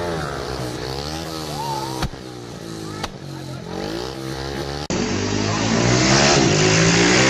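Motorcycle engines revving, the pitch rising and falling in repeated waves, with a couple of sharp clicks. About five seconds in, a cut brings in a louder engine running at a fairly steady pitch.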